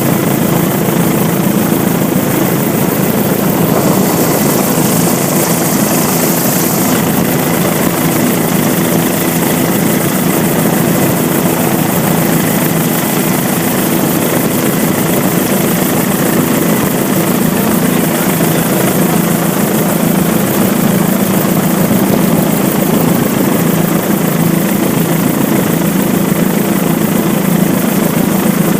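Helicopter running steadily: a loud, constant drone with a steady low hum underneath.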